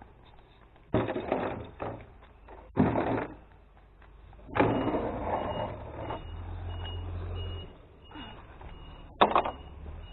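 Glass bottles and jars crashing as kerbside glass is tipped into a recycling truck's compartments, in four sudden bursts (about a second in, near three seconds, a longer pour near five seconds, and a sharp crash near the end), over the truck's engine running low.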